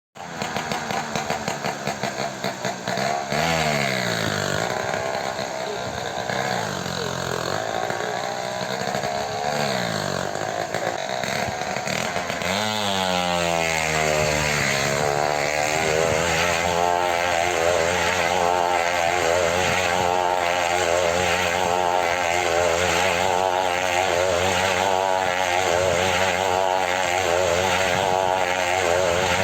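Small two-stroke engine running, uneven for the first few seconds, then revved up and down several times before being held at high revs with a wavering pitch.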